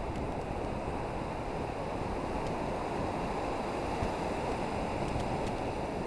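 Ocean surf washing against coastal rocks: a steady rushing wash of waves, with some wind.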